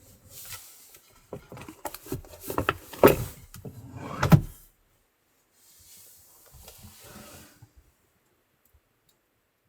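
A run of irregular knocks and thumps for about four seconds, the loudest just after three seconds and just after four, then a quieter rustle, then silence.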